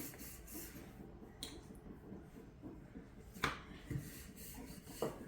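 Quiet room tone with a few short, sharp clicks and soft taps, the clearest about three and a half seconds in.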